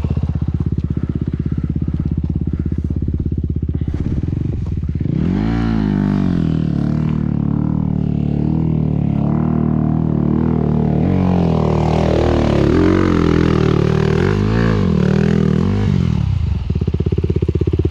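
Motocross bike engine idling steadily, then from about five seconds in revved up and down over and over.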